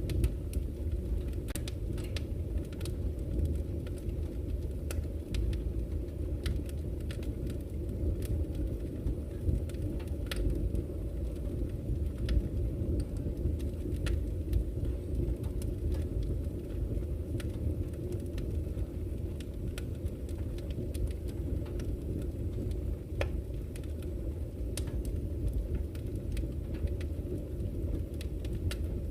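Campfire crackling, with sharp pops and snaps at irregular intervals, over a steady low rush of flowing river water.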